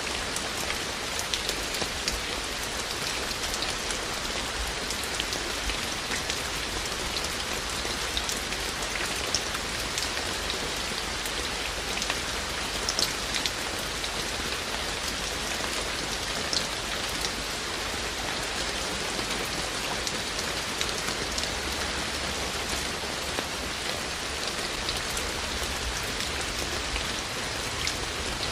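Steady rain falling, an even hiss with many separate raindrops ticking sharply on a surface.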